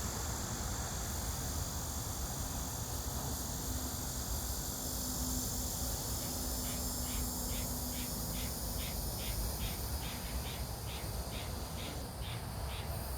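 A steady low rumble and hiss, with an insect chirping regularly, about three chirps a second, from about halfway through.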